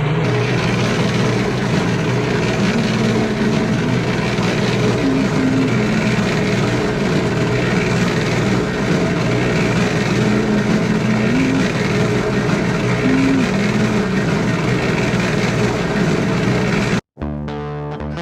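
An engine-driven machine running steadily, its pitch rising briefly now and then; it cuts off suddenly near the end, where guitar music begins.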